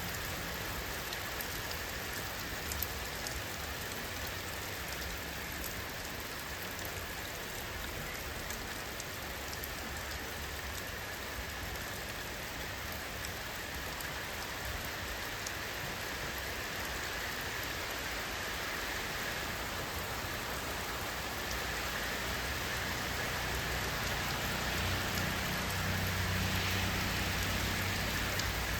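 Steady rain falling on surfaces, a continuous hiss scattered with individual drop ticks. A low rumble swells in the last several seconds and the rain grows slightly louder.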